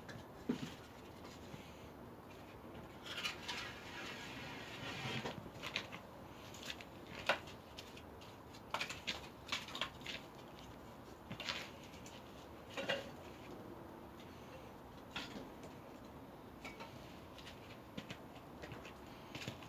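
Irregular light clicks and knocks over a low steady background, with a brief hiss about three to five seconds in.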